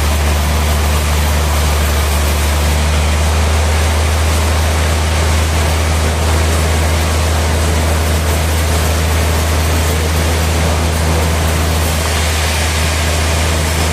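Sawmill machinery running steadily: a constant low engine-like drone under a continuous noisy rush.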